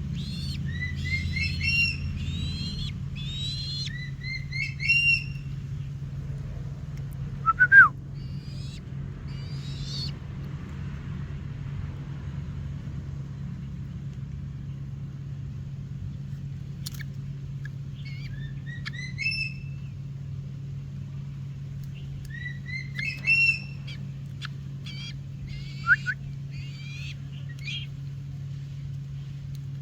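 Bird calling in phrases of short rising chirps, with a louder, brief falling call about eight seconds in, over a steady low hum.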